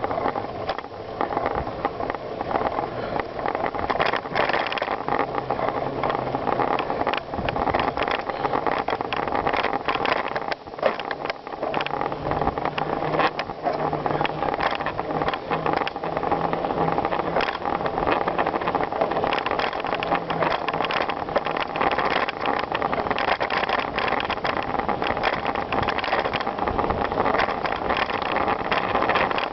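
Bicycle riding over a rough gravel trail: continuous tyre and riding noise with constant clicking and rattling from the bike.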